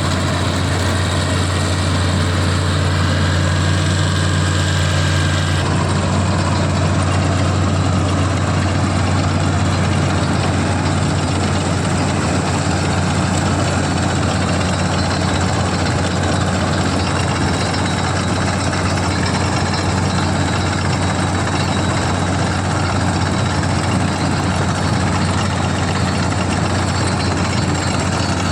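CLAAS combine harvester's diesel engine running steadily with a low drone, with no change in speed.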